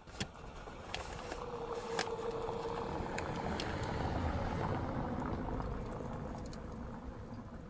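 A vehicle passing by, its noise swelling to a peak about four seconds in and then fading, with a couple of sharp clicks along the way.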